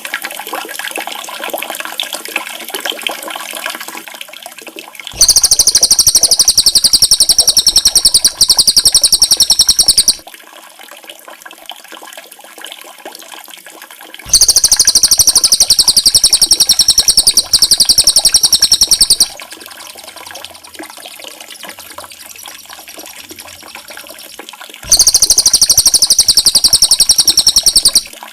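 Running water with faint small-bird chirps, broken three times by a loud, high, very fast buzzing trill lasting several seconds each. It is songbird audio of the kind played to tutor caged songbirds.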